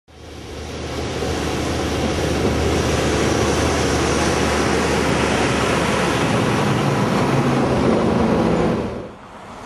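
An engine running steadily under a loud rushing noise, building over the first two seconds and dropping off sharply about nine seconds in.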